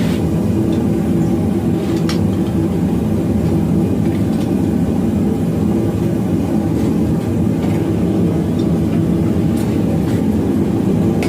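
Forge running with a steady, loud roar, with a few faint metallic clicks over it.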